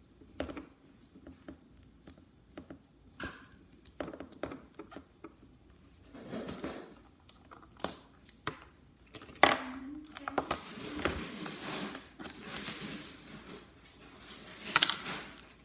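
Wrapping around a bánh in rice cake being peeled off by hand: crinkling and rustling in several stretches, with scattered light clicks and taps of handling on a table.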